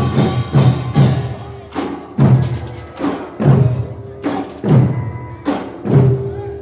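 Korean nongak farmers' band percussion playing: drums struck hard in a driving rhythm, roughly two strokes a second, with some ringing between the strokes.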